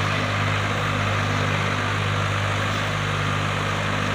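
Tractor diesel engine running at a steady, unchanging speed.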